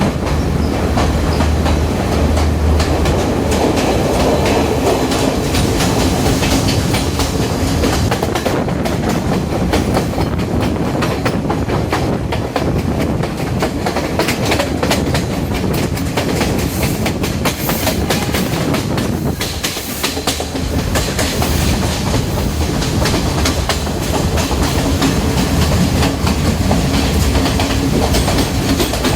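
Diesel multiple-unit passenger train, a 2019 Chinese-built set powered by two MTU 12V 4000 engines, running along the line: steady rumble with wheels clacking over the rail joints and a brief drop in loudness about two-thirds of the way through.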